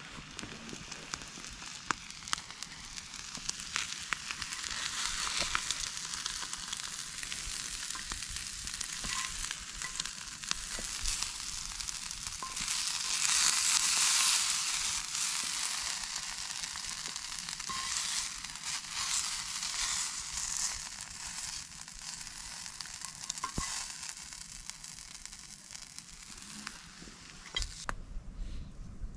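Food sizzling in a hot pan: a steady frying hiss scattered with small pops, swelling louder about halfway through.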